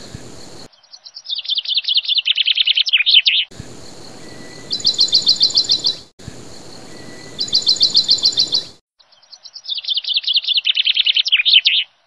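A small bird's high, rapid chirping trills: runs of about eight to ten sharp notes a second, each run lasting a second or two, repeated several times. The sound cuts abruptly between passages, as in an edited track.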